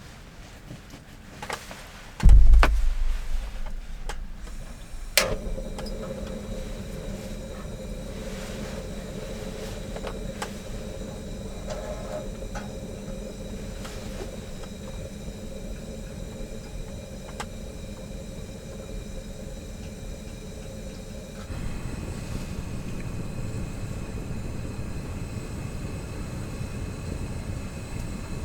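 A heavy low thump, then a click and a steady mechanical hum that sounds like a car running. About two-thirds of the way through, a deeper rumbling joins it.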